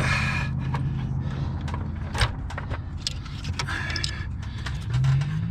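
Engine-bay parts being handled during intake manifold refitting: scattered light clicks, short scrapes and one sharper knock about two seconds in, over a steady low hum.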